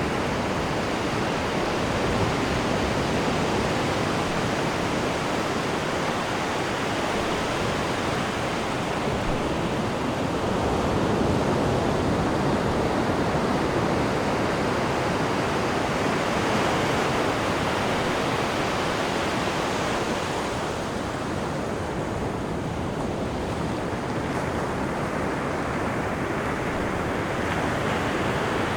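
Sea water rushing and churning off the stern of a cruise ship under way: a steady wash of waves that swells a little midway and eases slightly later.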